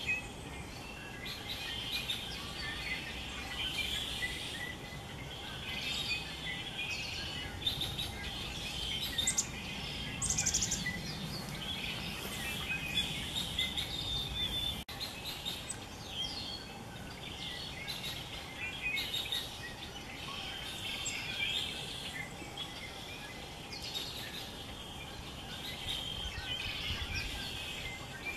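Small songbirds chirping and calling in a dense, irregular twitter, with a few sharper high notes about a third of the way in.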